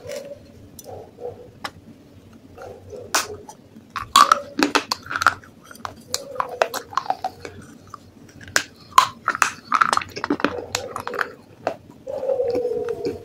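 Close-up crunching and chewing of baked clay pot pieces: sharp, irregular cracks between bites, sparse at first and coming thick and fast from about four seconds in.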